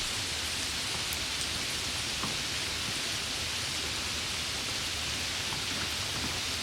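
Heavy rain falling steadily: a dense, even hiss with a few nearer drops ticking now and then.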